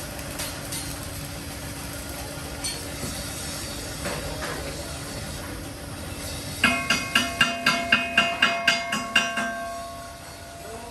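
A steady machine hum, then a quick run of about a dozen hammer blows on metal, roughly four a second, each one ringing.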